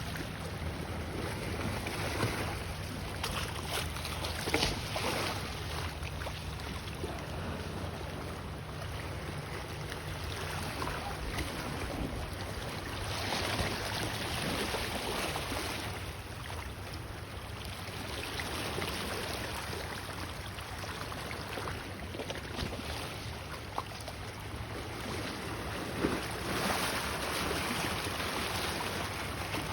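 Small ocean waves washing against the shore, surging louder every ten seconds or so, with wind rumbling on the microphone.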